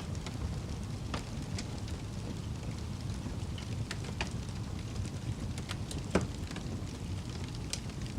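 Campfire burning: a steady low rumble of the flames with scattered sharp crackles and pops, the loudest about six seconds in.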